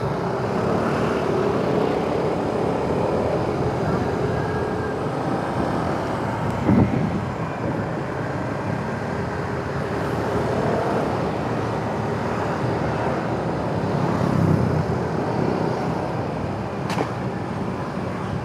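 Motorcycle riding in town traffic: steady engine and road noise from the bike, with surrounding traffic, and a short thump about seven seconds in.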